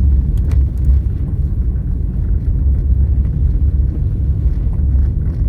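Steady low rumble of a car driving slowly on snowy roads, heard from inside the cabin.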